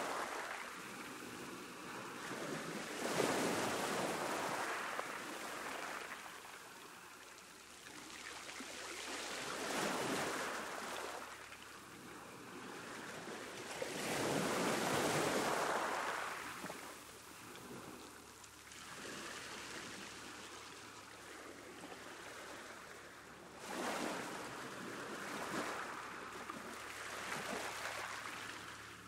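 Ocean waves breaking and washing up on a beach, the surf swelling and ebbing every few seconds with about five larger breakers.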